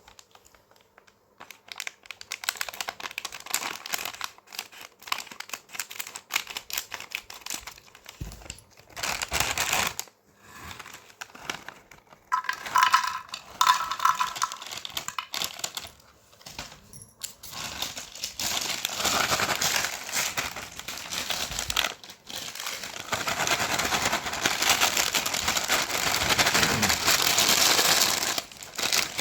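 Crinkling and crackling of a plastic snack packet of crunchy Crax Fritts being handled, in irregular bursts, becoming a denser, steadier rustle in the second half.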